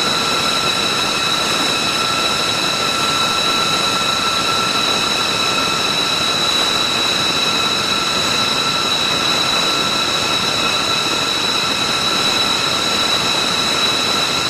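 B-2 Spirit stealth bomber's General Electric F118 turbofan jet engines running at a steady setting: a constant roar with a high, steady whine over it.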